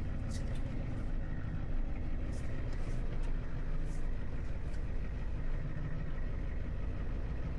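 Tow truck engine running steadily at low speed while the truck is manoeuvred into position, with a few faint short ticks over the rumble.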